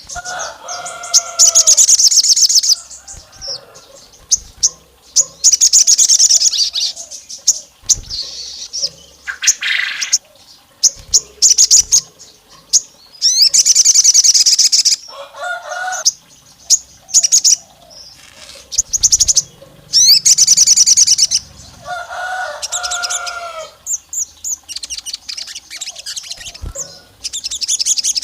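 Sogon songbird singing: loud bursts of rapid, high trilling, each one to two seconds long and repeated every few seconds, with some lower warbled notes between them.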